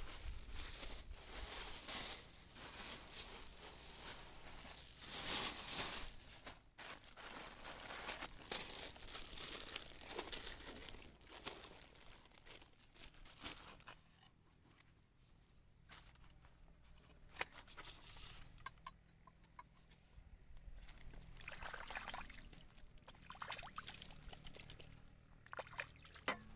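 Water trickling and sloshing, with irregular clicks and crinkling handling noises, busier in the first half and quieter later.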